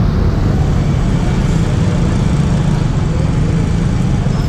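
Motorcycle engine running steadily, a low even hum, mixed with road and traffic noise.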